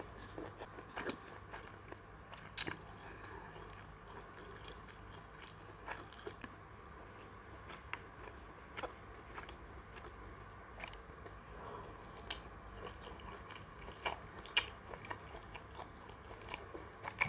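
A person biting and chewing garlic pork sausage, with irregular short mouth clicks.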